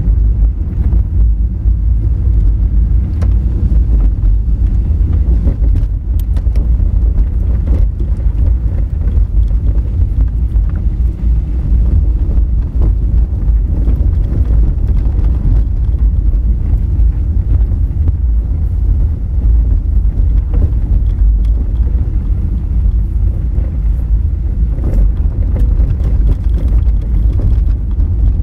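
Honda Fit driving on a rough, rocky dirt road: a steady low rumble of tyres and running gear on gravel, with a few sharp ticks and knocks scattered through it.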